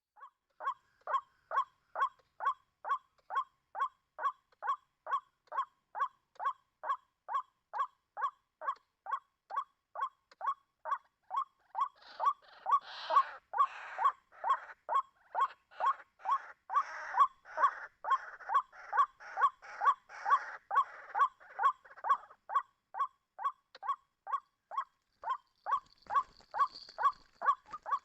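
White-breasted waterhen calling: a steady, repeated 'kwak' note about twice a second. From about twelve seconds in to about twenty-two seconds, harsher, noisier calling overlaps the steady series and then drops away.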